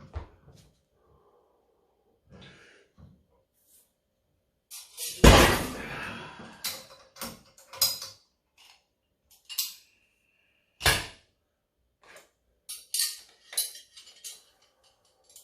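Iron weight plates and a loaded rolling handle clanking and knocking. There is one loud, ringing crash about five seconds in, followed by scattered sharp metal clinks.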